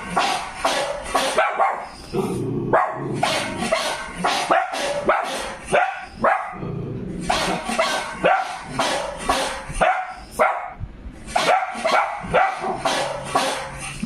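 Dog barking over and over in quick runs of several sharp barks, with short pauses between the runs.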